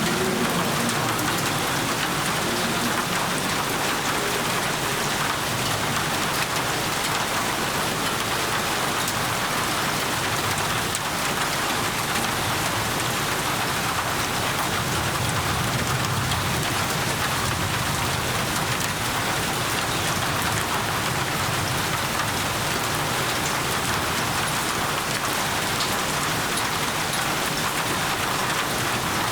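Steady heavy rain falling and pattering on surfaces, with a low rumble of distant thunder swelling in the middle.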